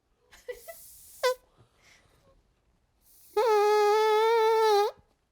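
A person making a fake fart noise: a short falling squeak about a second in, then a long, steady, trumpet-like buzz of about a second and a half that flicks up in pitch as it ends.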